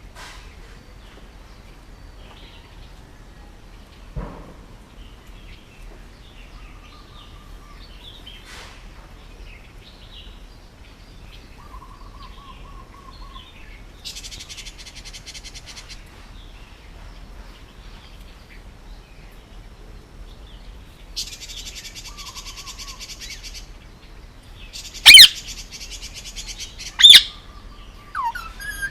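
Male Indian ringneck parakeet calling: a few short, level whistles, two spells of rapid buzzy chatter lasting about two seconds each, then two very loud, sharp screeches near the end.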